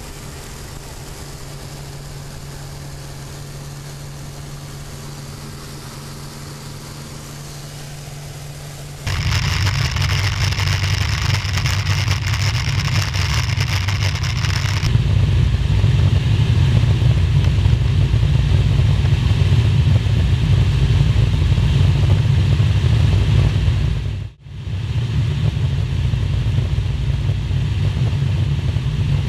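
Piston aircraft engines running steadily across several spliced clips. A steady engine drone gives way about nine seconds in to a much louder, rougher engine run with rushing noise, and the sound briefly cuts out a little after halfway.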